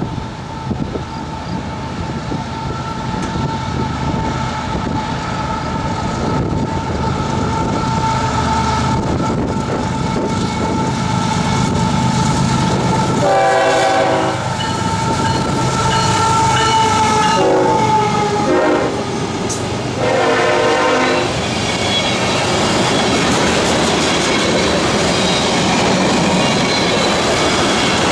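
Freight train led by a GE ES44AH diesel locomotive approaching and passing, growing louder as it nears. The locomotive's air horn sounds four blasts between about 13 and 21 seconds in, the middle two shorter. After that, freight cars roll past with wheel clatter.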